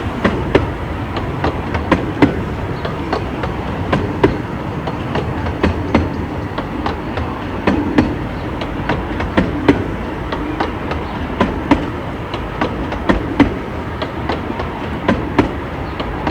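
A 15-inch gauge miniature railway train running along the track: a steady rumble of wheels with frequent sharp, uneven clicks as the wheels pass over the rail joints.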